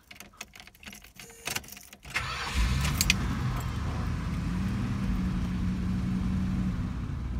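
1973 Imperial LeBaron's 440 V8 started from the driver's seat: a few clicks and key rattles, then about two seconds in the engine cranks briefly, catches with a short flare and settles into a steady, smooth idle, heard inside the cabin.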